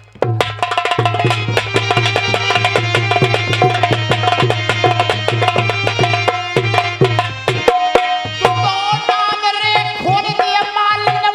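Instrumental folk music: a hand drum playing fast, dense strokes over a steady low drone and a held, pitched melody line that bends in pitch near the end.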